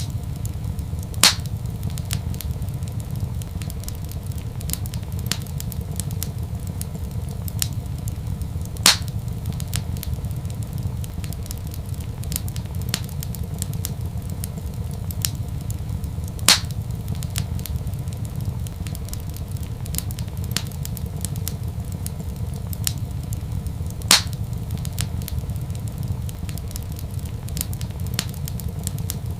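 Wood fire crackling in a fireplace: a steady low rumble under many small crackles, with a louder pop about every seven to eight seconds.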